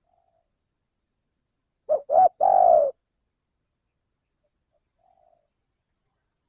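Spotted dove (tekukur) cooing: one phrase of two short notes and a longer drawn-out note about two seconds in, with faint short coos near the start and about five seconds in.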